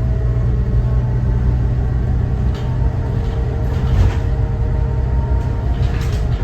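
Cummins ISB 6.7 inline-six turbo-diesel of a Thomas Saf-T-Liner C2 school bus running with a steady low drone as the bus drives, with a few light rattles over it.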